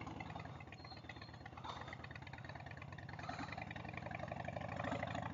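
Harley-Davidson Sportster 1200's air-cooled V-twin idling through Vance & Hines staggered shorty exhaust, with even firing pulses, growing a little louder toward the end.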